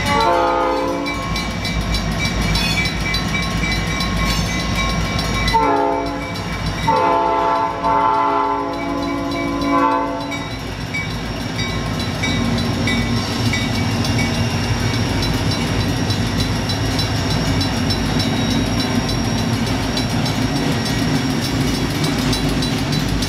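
Diesel freight locomotive's horn sounding several blasts for a grade crossing, the longest running from about seven to ten seconds in, then the steady rumble of the freight cars rolling through. A mechanical crossing bell rings over it throughout.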